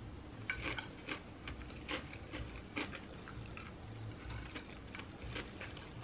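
Close-up chewing of a crunchy deep-fried corn dog with a breadcrumb and crushed hot Cheeto coating: irregular crisp crunches, several a second.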